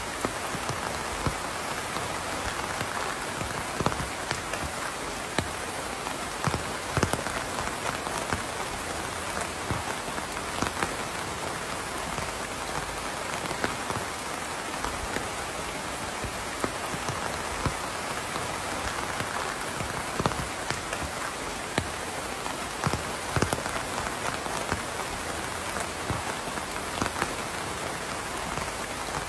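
Steady rain falling, with scattered louder drops striking a surface close by at irregular moments.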